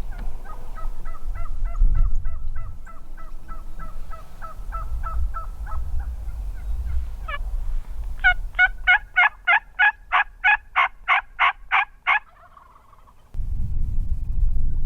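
Turkey yelps: a long, even run of about twenty yelps, then after a short pause a louder, raspier run of about fourteen yelps at three to four a second. A low rumble comes in near the end.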